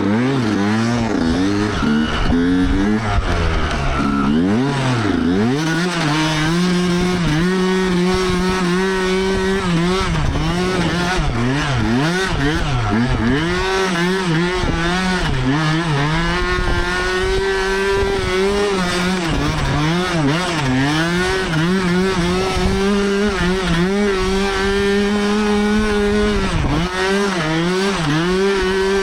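Yamaha YZ125 two-stroke dirt bike engine revving hard, its pitch climbing and holding high for several seconds at a time, then dipping sharply and climbing again many times as the throttle is rolled off and reopened.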